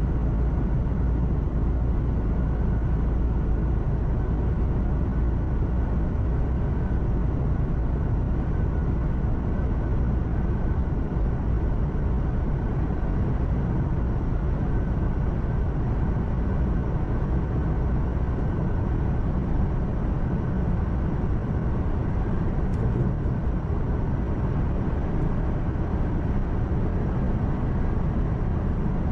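Truck engine drone and tyre and road noise heard inside the cab while cruising steadily, a constant low rumble that holds the same level throughout.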